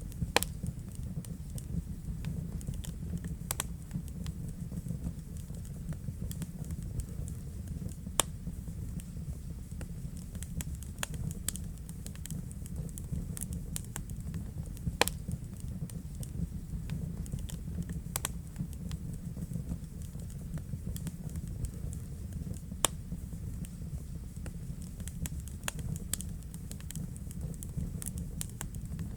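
Wood fire burning in a fireplace: a steady low rumble of flames with fine crackling throughout, and a few sharp pops from the burning logs several seconds apart.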